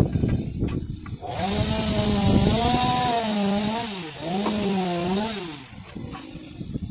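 A handheld power tool runs under load for about four and a half seconds, its motor pitch wavering and dipping sharply once midway as it bites, then it stops. A few knocks come just before it starts.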